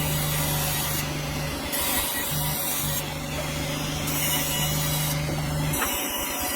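A sawmill blade cutting through a dense hardwood log: a steady rasping saw noise over a low, even hum from the mill's motor, with the high hiss of the cut swelling and easing about once a second.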